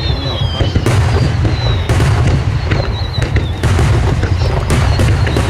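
Aerial fireworks going off in a dense barrage: a continuous deep rumble of bursts, with sharper bangs about once a second and several high whistling tones that fall slightly in pitch.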